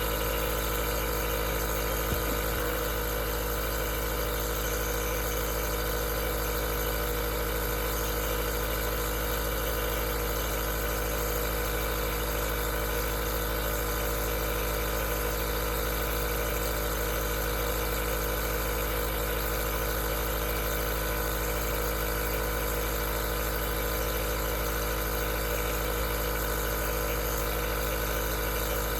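Aerosol nebulizer's compressor running steadily: a constant hum made of several fixed tones over an even hiss of air, with one faint tick about two seconds in.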